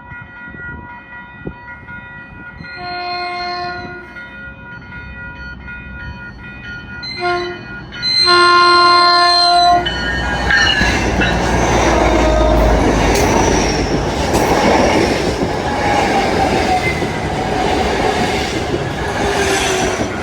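Train air horn sounding a long blast, a short one, then a longer, louder one: the end of the long-long-short-long grade-crossing warning. After that the train passes close, a loud rush of wheels on rail with squealing tones that eases off near the end.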